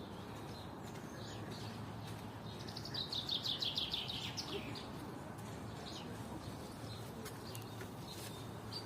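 Songbirds singing: about three seconds in, one bird gives a fast, high trill lasting about a second and a half, the loudest sound here. Scattered short high chirps come before and after, over a steady low background hum.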